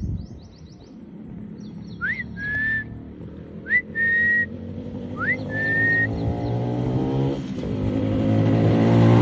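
Three whistled notes, each a quick upward sweep into a short held tone, about a second and a half apart. From about seven seconds in, a motorcycle engine runs and revs, rising in pitch and growing louder toward the end.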